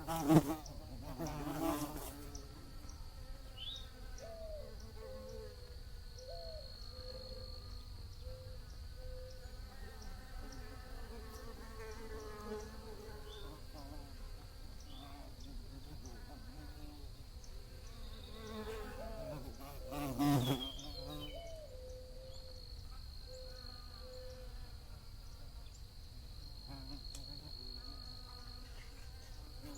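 Bees buzzing as they fly about, the hum wavering in pitch, with loud close fly-bys right at the start, about two seconds in and about twenty seconds in. A steady thin high-pitched tone runs behind it.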